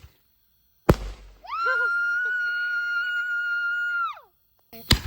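Consumer fireworks: a sharp bang about a second in, then a long shrill high note held steady for about three seconds that drops in pitch as it dies away, and another bang near the end.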